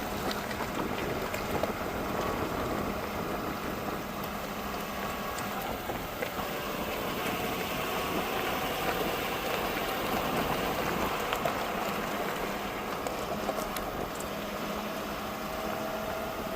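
Ford Super Duty pickup driving along a forest road in four-wheel drive with its front hubs locked: steady engine and tyre noise with a faint hum.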